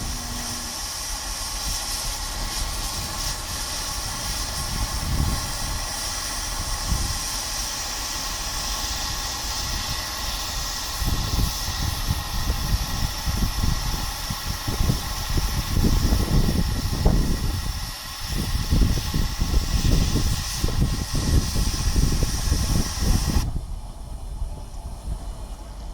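1925 steam locomotive hissing steadily as it vents steam, with irregular low rumbling from about eleven seconds in; the hiss cuts off suddenly near the end.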